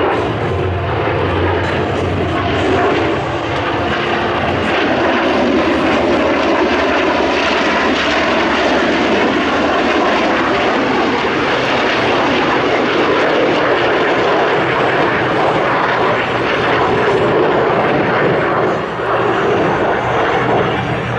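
An airplane's engine noise, loud and steady, from an aircraft in flight.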